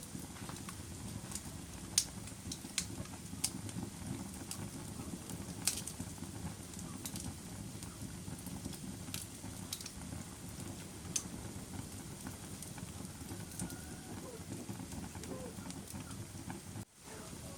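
Wood fire burning in a fireplace: a steady low rumble of flame with scattered sharp crackles and pops. The sound drops out briefly near the end.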